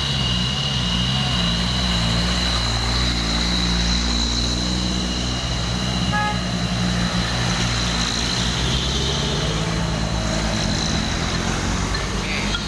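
Truck engines running with a steady low rumble, with a thin high whine above it that fades out near the end.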